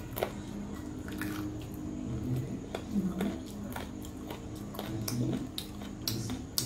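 Close-miked wet chewing, lip-smacking and sucking of someone eating chicken curry by hand and gnawing a chicken bone, with scattered sharp clicks. A steady low hum runs underneath.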